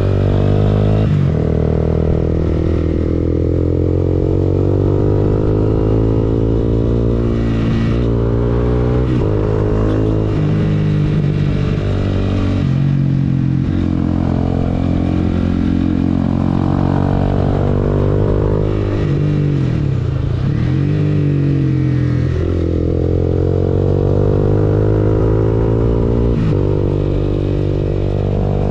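Honda CBR250R's single-cylinder engine running through an Akrapovic exhaust, its pitch rising and falling with several sudden steps, and dipping low then climbing again about two-thirds of the way through.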